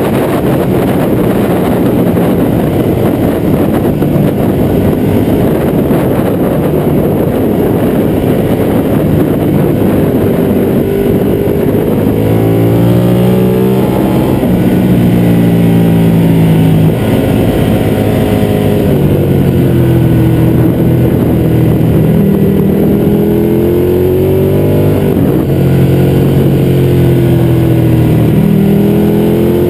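A Ducati 1199 Panigale's 1198 cc Superquadro V-twin engine is ridden hard on track, heard from a camera on the front fairing. A heavy wind rush over the fairing dominates the first part. From about halfway the engine note comes through clearly, its pitch rising and falling sharply several times with throttle and gear changes.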